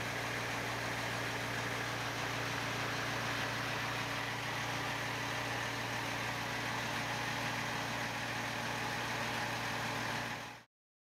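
A vehicle engine idling steadily with a low, even hum, cutting off abruptly near the end.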